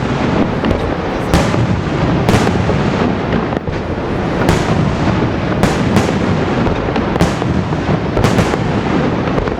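Fireworks display going off: a continuous rumble of bursts, with sharp loud cracks about once a second.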